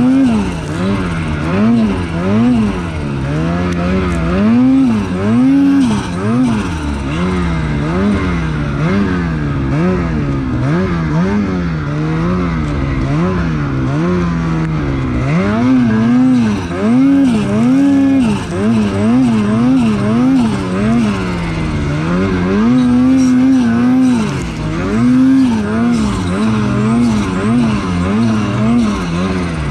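Lynx Shredder snowmobile's two-stroke engine revving up and down over and over, its pitch rising and falling about once a second as the throttle is worked.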